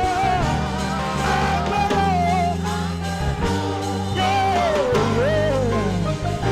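Live gospel worship music: a saxophone plays a bending, ornamented melody between the sung lines, over sustained chords and bass.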